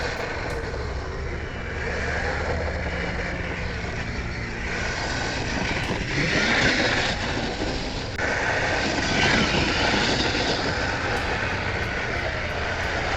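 Kyosho Blizzard RC tracked snow cat running flat out on a 3S LiPo, its brushless motor whining up and down with the throttle over a steady drivetrain noise. It is loudest about six to seven seconds in.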